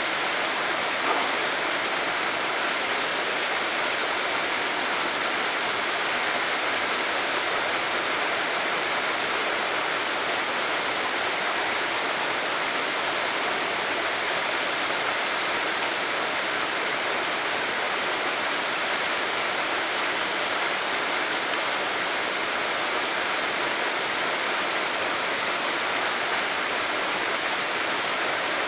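Waterfall rushing: a steady, even noise of falling water, with a brief knock about a second in.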